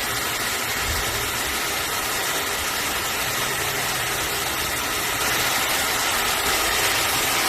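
Laifen SE high-speed hair dryer blowing, a steady rushing of air with a faint whine, getting a little louder about five seconds in.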